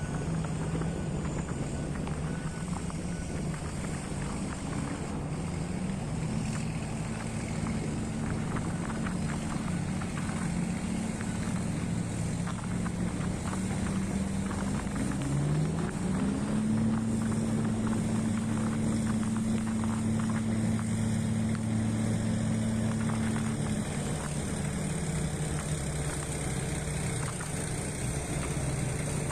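Heavy diesel engine of earth-moving machinery running steadily. About halfway through it revs up and holds at higher revs for several seconds, then settles back near the end.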